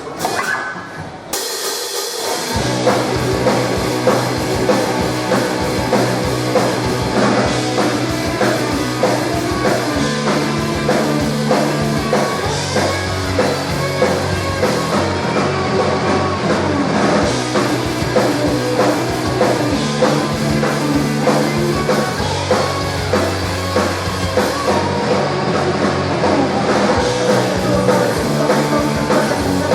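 Live rock band playing with a drum kit and a bass line that moves between held low notes. The full band comes in about two and a half seconds in.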